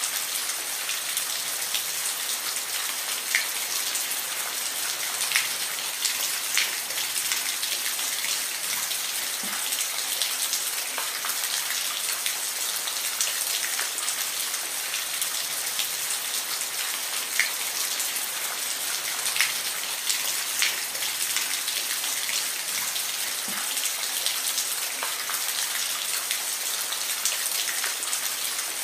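Steady rain, a dense high hiss with scattered louder individual drops ticking on a surface.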